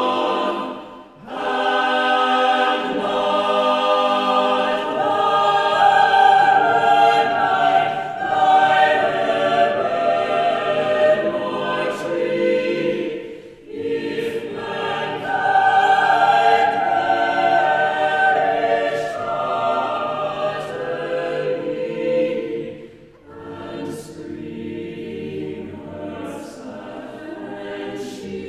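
Choir singing a cappella in sustained, many-voiced chords, with short breaths between phrases about a second in, halfway through and near the end.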